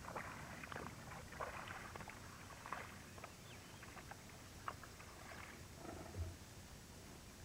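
Faint sounds of a moose moving close by: irregular swishing and rustling with a few sharp clicks, and a low thump about six seconds in.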